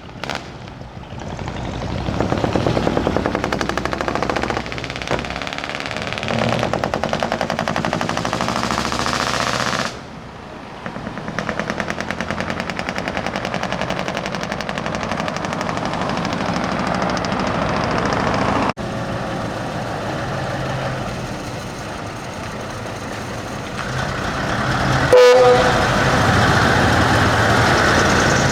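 Decorated trucks pulling out one after another, their diesel engines running with a rapid pulsing exhaust and air horns sounding. The sound breaks off abruptly twice, about ten seconds in and again near nineteen seconds.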